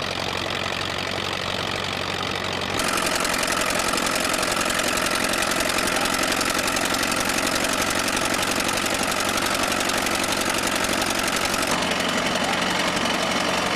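Old tractor engine running steadily with a low, even drone, louder and harsher from about three seconds in.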